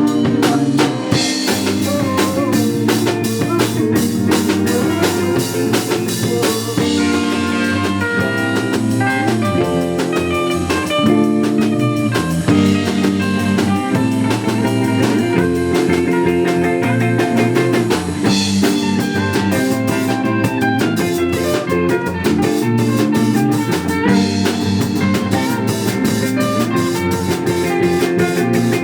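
A live band playing an instrumental passage: guitar over a steadily played drum kit, with heavier cymbal work in the opening seconds and again in the second half.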